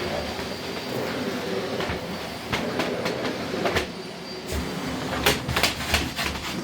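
Miele CX1 Blizzard bagless cylinder vacuum cleaner running steadily as its floor head is worked over carpet, with a faint high whine. A series of sharp clicks and knocks comes near the end.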